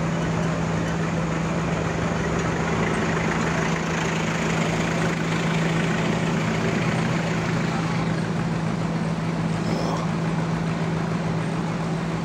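Homemade sawmill running steadily: a constant low engine hum under an even mechanical noise.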